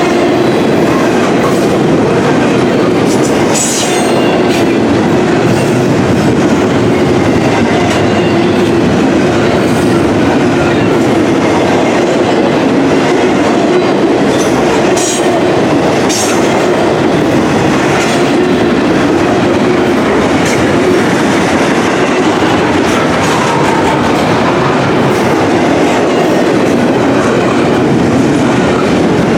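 Intermodal container freight train rolling steadily past, with a continuous loud rumble and clickety-clack of wheels on the rails. A few brief high-pitched wheel squeals cut through about four seconds in and again around fifteen seconds in.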